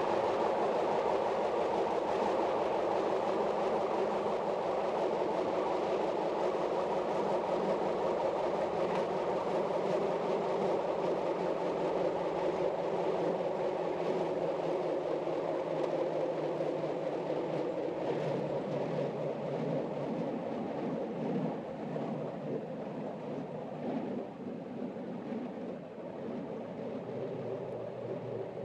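Metre-gauge electric passenger train running along the track, heard from the driver's cab: a steady running noise of wheels on rail and running gear, getting somewhat quieter near the end.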